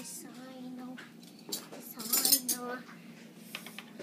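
Metal cutlery clinking as pieces are handled and set down one after another, a few separate light clinks.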